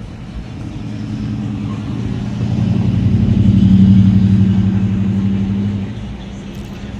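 A motor vehicle's engine passing close by, growing louder to a peak about four seconds in and fading by about six seconds.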